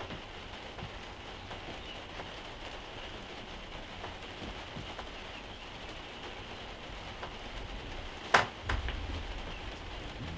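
Steady rain falling, with one sharp, loud crack about eight seconds in, followed by a smaller knock and a low rumble.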